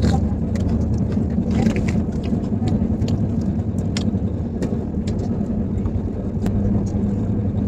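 Steady low rumble of a moving passenger train heard from inside the coach, with scattered light clicks throughout.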